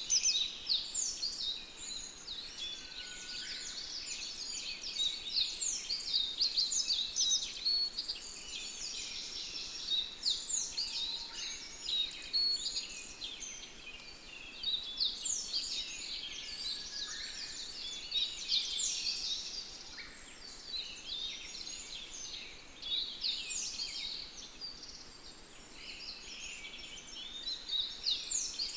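Many small birds chirping and singing at once: a dense, continuous chorus of short, high, quick notes.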